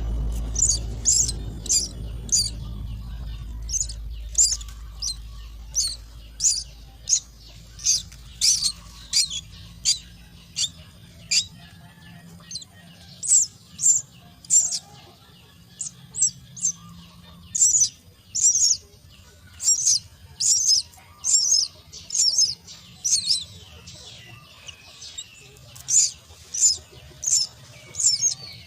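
Myna chicks' begging calls at the nest: short, high, sharp calls repeated one or two a second, with brief pauses. A low rumble fades out over the first few seconds.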